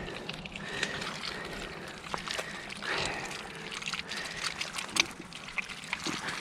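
Shallow water sloshing and trickling as mountain bikes go through it, with a few scattered clicks and knocks.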